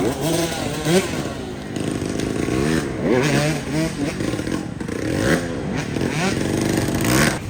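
Several off-road dirt bike engines revving and accelerating together, their pitches overlapping and repeatedly rising and falling as the riders pull away and shift through the gears.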